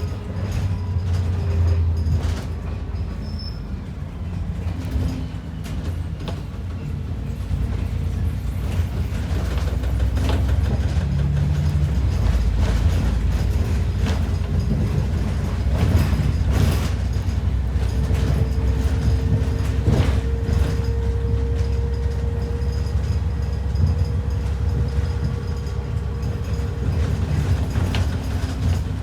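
Inside an ADL Enviro 400 double-decker bus on the move: steady low engine and road rumble with rattles and creaks from the body. The rumble grows heavier in the first third, and a faint steady whine comes in about two-thirds of the way through.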